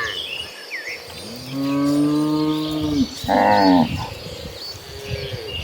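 Cattle mooing: a long, low moo about a second and a half in, then straight away a shorter, higher-pitched call that falls at its end, and a fainter falling moo near the end. Faint bird chirps sound above them.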